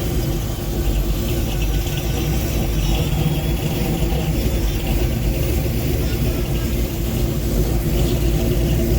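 Car engine idling steadily, a low even rumble with no revving.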